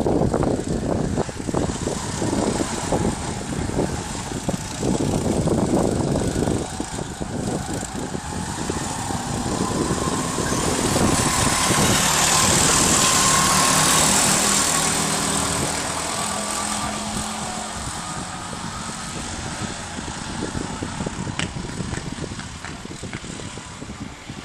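Go-kart engines running on a track. The sound swells to its loudest about twelve to fourteen seconds in, as a kart passes close, and then fades.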